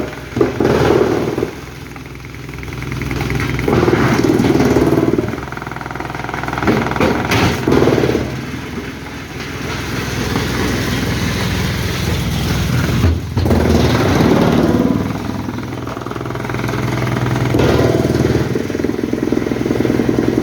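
Heavy machinery engine running, its level swelling and easing every few seconds as the load changes.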